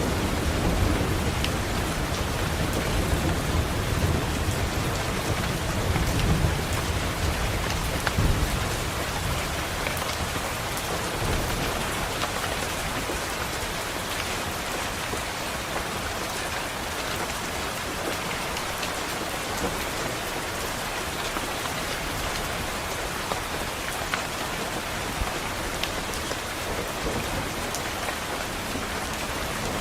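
Steady rain falling against a window, with a low rumble of thunder that swells through the first eight seconds or so and then fades away.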